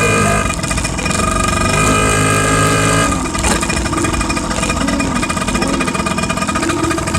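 Small motorcycle running steadily as it is ridden along, with a steady whine.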